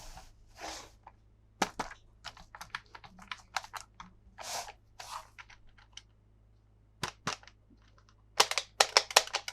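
Hard plastic toy parts and packaging being handled: irregular sharp clicks and taps mixed with short rustles, with a quick run of louder clicks near the end.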